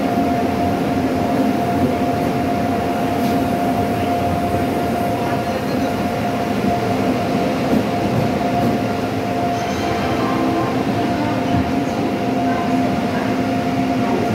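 Passenger train moving slowly along a station platform, heard from an open coach door: a steady running rumble with a held humming tone throughout.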